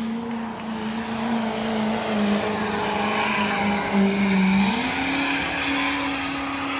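Engine of a pulling vehicle running hard at high revs under load. Its pitch sags a little, then rises about five seconds in and holds steady.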